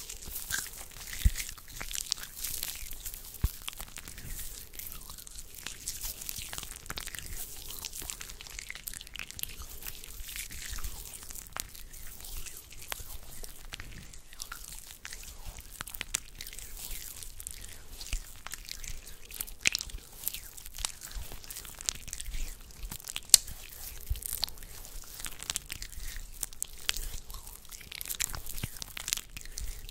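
Close-miked hand sounds: dry rustling and crackling of skin against skin, with many scattered sharp clicks and snaps.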